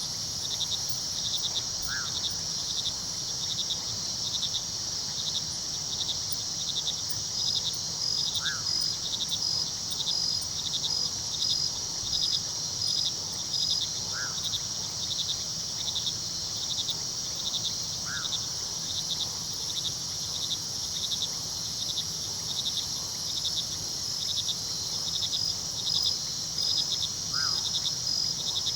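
Crickets chirping in a steady, dense chorus of rapid even pulses over a low steady rush of river water. A brief call sounds five times, a few seconds apart.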